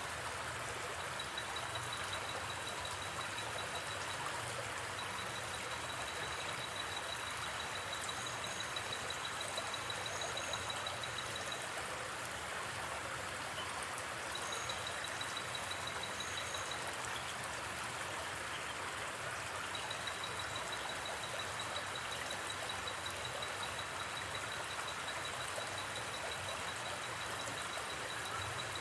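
A river flowing steadily, a continuous rush of water. Over it, a high, rapidly pulsing insect trill starts and stops several times.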